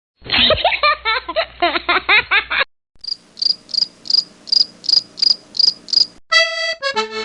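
A rapid run of squeaky, up-and-down chattering calls lasting about two seconds. After a short pause comes a cricket chirping: about ten even, high chirps, roughly three a second. Near the end a brief ringing tone starts.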